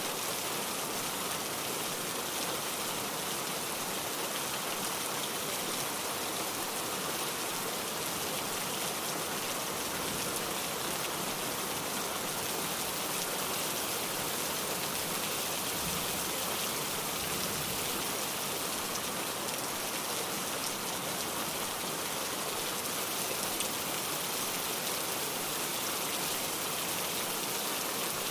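Steady rainfall, an even hiss of rain with no change through the stretch.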